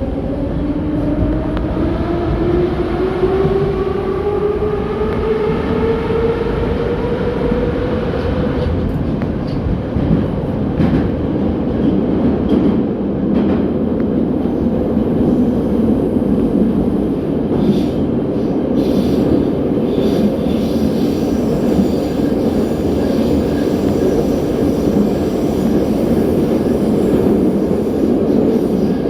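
81-717.6 metro train heard from inside the car as it pulls away. The traction motors whine, rising steadily in pitch over about the first eight seconds of acceleration. The train then runs on with a steady rumble and wheel clatter on the rails.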